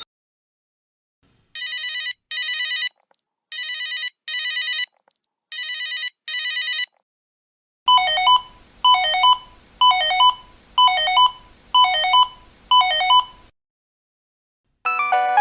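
Two electronic telephone ringtones in turn. First comes a double ring, three pairs of short rings. Then a single pitched ring sounds six times, about once a second, each ring starting sharply and fading.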